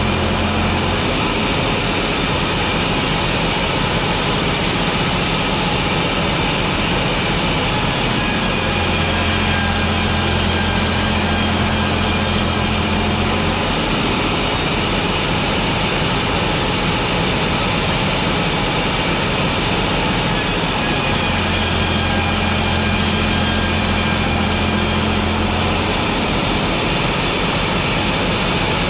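Sawmill machinery running continuously while slabbing boards from a log, its sound changing in a repeating cycle roughly every thirteen seconds as each pass is made.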